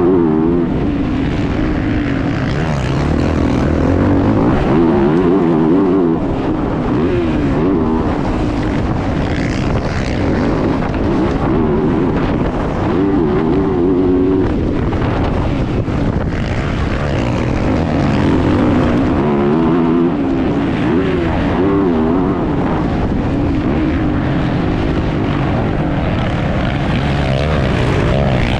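Motocross bike engine running hard, revving up and down over and over as the rider accelerates and backs off around the track, heard close up from an onboard action camera.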